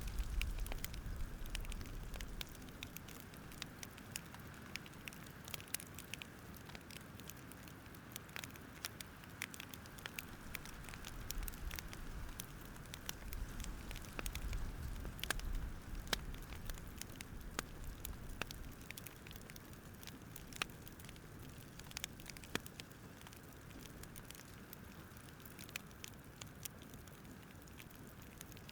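Wood fire crackling: irregular small pops and snaps over a soft low rumble.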